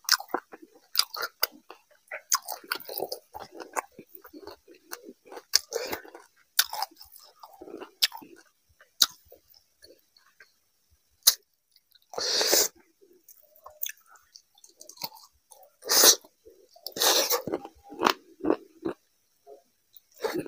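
Close-miked wet chewing and lip smacking of rice and fish curry eaten by hand, with small clicks of fingers scraping a steel tray. A few louder noisy bursts come about midway and again about three-quarters through.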